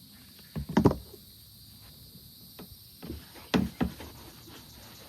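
A few sharp knocks, in two clusters about a second in and about three and a half seconds in, over a faint steady background.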